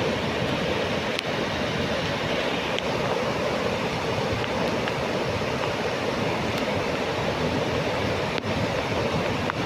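Steady rushing of a fast-flowing river swollen by heavy rain.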